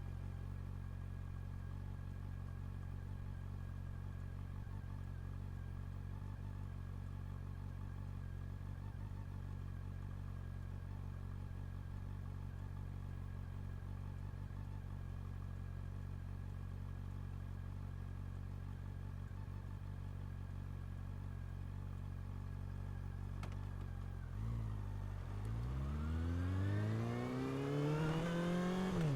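Honda CB400 Super Four's inline-four engine idling steadily. About 24 seconds in it revs up and the bike pulls away, the pitch climbing hard and then dropping at a gear change near the end.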